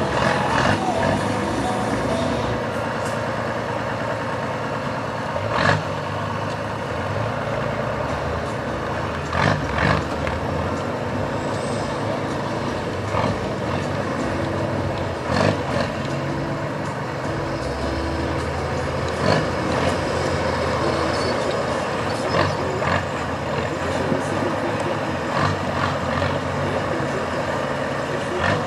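Mercedes-Benz Unimog 4x4's diesel engine working under load off-road, its pitch rising and falling as it is revved, with sharp knocks from time to time.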